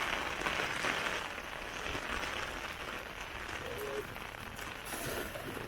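Steady rain falling, a little louder in the first second or so.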